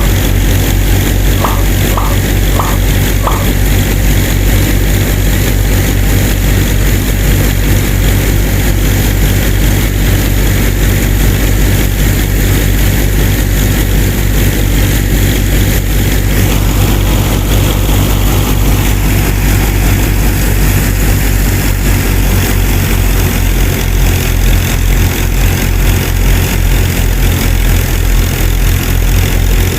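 A small motor running steadily with a pulsing low hum, most likely driving a hand-made mini rice mill. A few short high beeps sound in the first few seconds, and after about seventeen seconds a rougher, brighter noise joins in.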